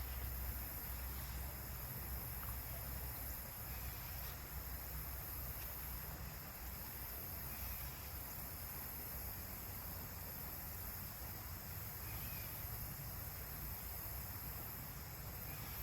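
Steady rushing of a creek running fast and high after rain, with a faint steady insect drone above it.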